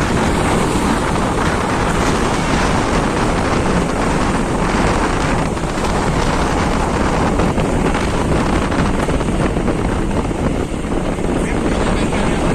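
Wind buffeting the microphone over a boat running steadily on open water, with waves washing.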